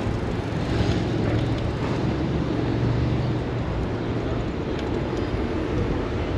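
City street traffic: a steady rumble of vehicles with a low engine hum that swells about three seconds in.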